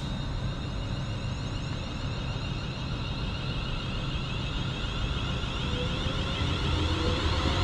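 Class 350 Desiro electric multiple unit pulling away from the platform, its traction motors giving a steady whine with faint tones rising in pitch, growing slowly louder toward the end.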